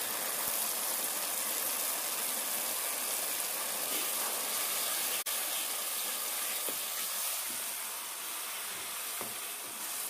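Onion-tomato masala paste, with ground spices just added, sizzling steadily as it fries in oil in a kadhai. It is stirred with a spatula, which gives a few light knocks. There is a brief dropout about halfway through.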